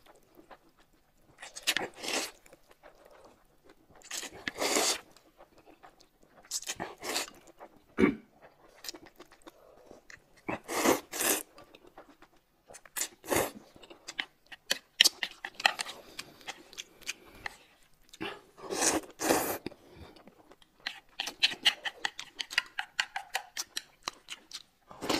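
A person chewing and crunching food close to the microphone, in irregular bites a second or two apart, with a run of quick crackly crunches near the end.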